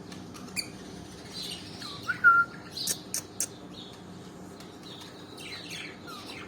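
Pet parrot making short chirps and squeaks, with a brief whistled chirp about two seconds in and a few sharp clicks around three seconds.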